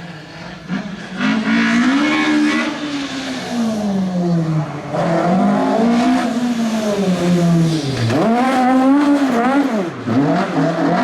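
Rally car engine working hard on a stage. Its note rises and falls as the car accelerates and lifts off, with two sharp drops and quick climbs near the end.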